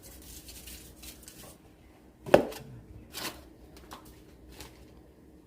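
Kitchen handling noises: a few separate knocks and clicks of utensils or dishes, the loudest about two seconds in.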